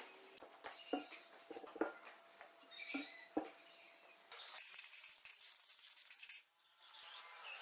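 Light, irregular clicks and clinks of small metal lathe parts being handled and fitted, some ringing briefly. After about four seconds comes roughly two seconds of hissing noise.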